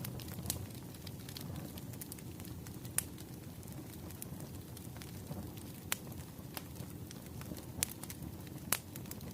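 Wood fire burning with a steady low rumble and a few sharp crackling pops from the burning logs, five in all, scattered irregularly.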